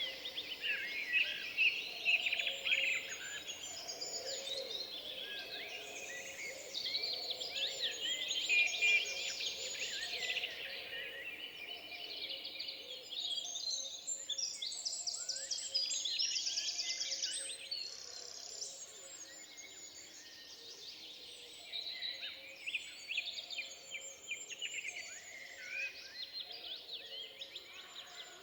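Forest ambience of many songbirds singing at once, their chirps, trills and quick whistled sweeps overlapping; the chorus is busiest in the first two-thirds and thins out toward the end.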